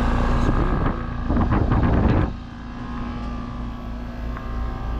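Outdoor air-conditioner condensing units running: a steady compressor hum and fan noise, one of them noisy. A louder rushing noise swells for about a second, between one and two seconds in.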